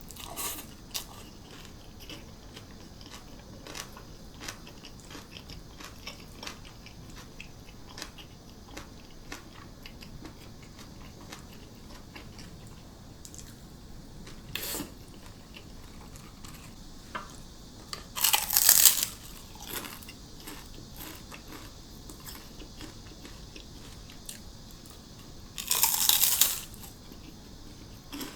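Close-up eating sounds: small chewing clicks throughout and two loud, crisp crunches of about a second each, one about two-thirds of the way in and one near the end, as fried seaweed chips (gim-bugak) are bitten. A faint steady cicada drone lies underneath.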